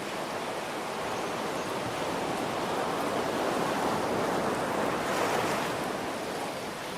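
Steady rain mixed with ocean surf: a wave builds over several seconds, peaks about five seconds in, then falls back.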